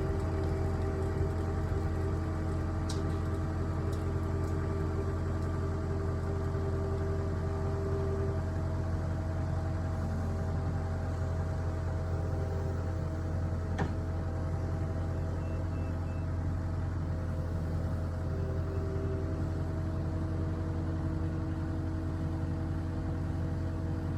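An engine running steadily at a constant speed, with a single sharp knock about fourteen seconds in.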